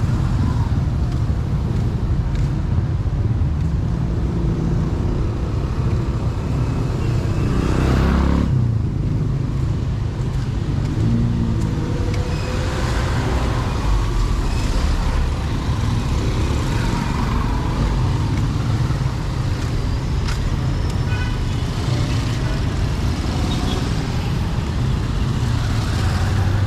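Street traffic: motor vehicles running and passing, with one passing close about eight seconds in.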